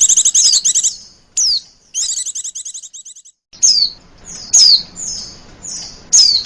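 Female white-eye (pleci) calling in the coaxing 'lenjeh manja' way used to lure other pleci. A rapid, high trill of repeated notes in the first second and again from about two to three seconds fades out. After it come sharp high chirps that slide down in pitch, three times, with softer calls between.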